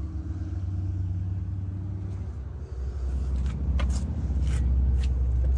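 A car engine idling with a steady low rumble that grows a little louder about three seconds in, with a few light clicks and knocks in the second half.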